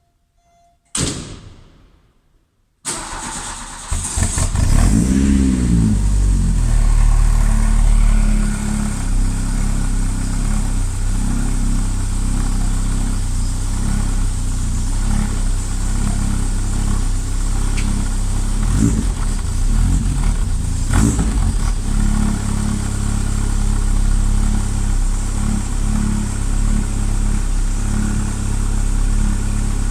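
Audi 4000S engine being cold-started. A short sharp sound comes about a second in, the engine cranks briefly and catches about three seconds in, revs up and back down once, then settles into a steady idle.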